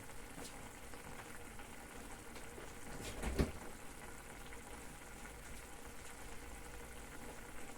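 Diced onion frying in a pan, sizzling and bubbling faintly with scattered small crackles as it cooks down in its own water. A single soft knock about three and a half seconds in.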